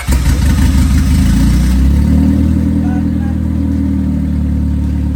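Honda engine catching right at the start and then running steadily and loudly.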